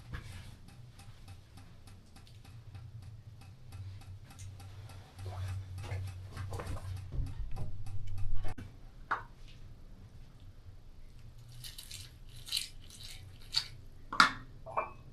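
Faint regular ticking, about three ticks a second, over a steady low hum, then a few sharper clicks and knocks near the end.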